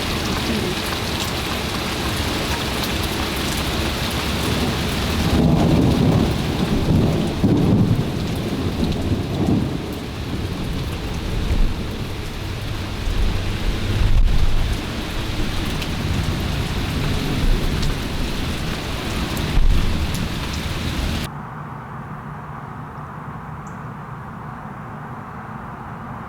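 Heavy rain pouring steadily while thunder rumbles and rolls, with several louder peaks. About 21 seconds in, the sound cuts abruptly to a quieter, duller low rumble.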